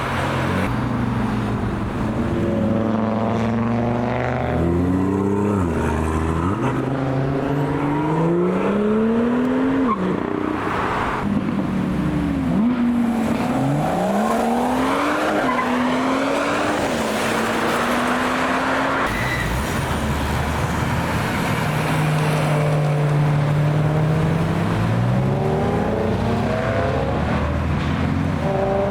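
Car engines accelerating hard one after another, each revving up and dropping in pitch at the gear changes, with a steadier engine note part-way through.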